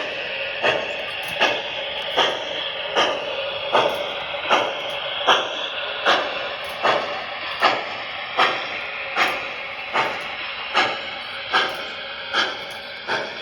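O-gauge model steam locomotive, an MTH Strasburg No. 90 Decapod, running on its track with a steady hiss and a sharp, even click about every three-quarters of a second.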